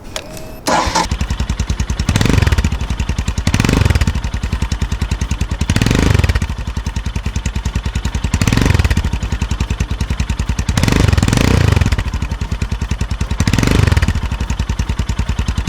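Royal Enfield Himalayan's single-cylinder engine running through a PoweRage free-flow slip-on exhaust, revved in short blips about every two and a half seconds, each rising and falling back to idle.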